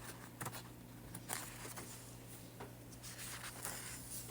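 Faint rustling and soft ticks of paper pages being handled and turned in a coloring magazine, a few separate small sounds, over a steady low hum.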